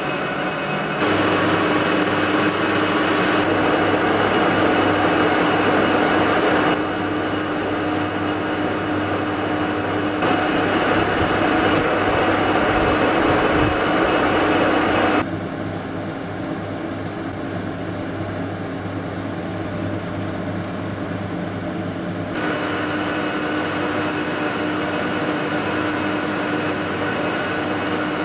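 A machine running steadily with a constant hum. Its loudness jumps up or down abruptly several times.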